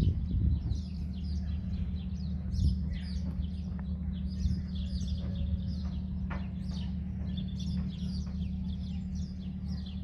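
Small birds chirping repeatedly, many short high calls, over a steady low hum.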